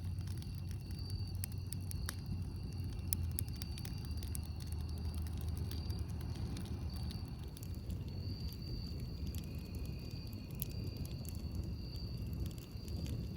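Campfire crackling, with frequent sharp pops and snaps of burning wood over a low, steady rumble of the flames. A thin, high, steady tone wavers underneath.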